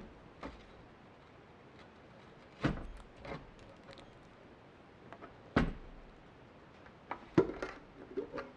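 Irregular knocks and clunks of things being handled or set down, about eight or nine separate hits, three of them louder, the loudest a little past the middle of the last third.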